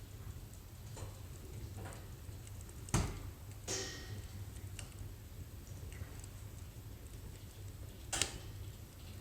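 Wood fire burning in a fireplace: a steady low rumble and faint hiss with scattered crackles, two sharp pops loudest, about three seconds in and again near the end.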